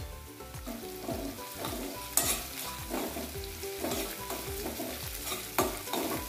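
Sliced onion, green chillies and garlic sizzling in hot oil in a kadhai while a spatula stirs them, scraping across the pan, with two sharper knocks of the spatula against the pan about two seconds in and near the end.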